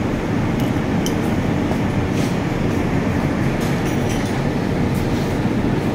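Steady low rumble, with a few faint metallic clinks.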